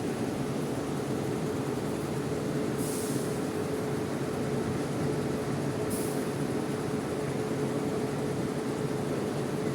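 Steady drone of an idling bus engine with a constant hum, broken by two short hisses about three seconds apart.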